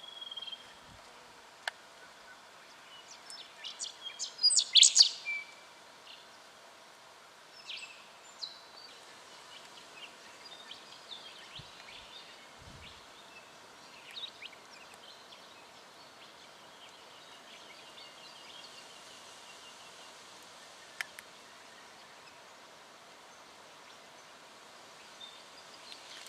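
Striated pardalote calling: short, sharp, high notes, with a loud cluster about four to five seconds in and scattered single calls after it, over a faint steady outdoor hiss.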